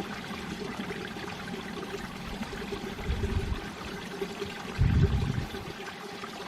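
Mountain valley stream flowing steadily, a continuous rushing and trickling of water. There are two brief low rumbles, the louder one about five seconds in.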